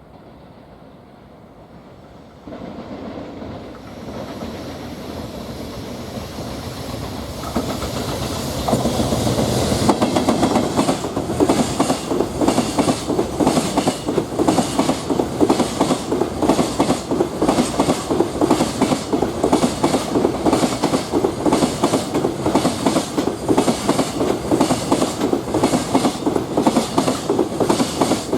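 Freight train approaching, then its container wagons rolling past close by. From about nine seconds in there is a steady, rhythmic clickety-clack of wheels over the rail joints.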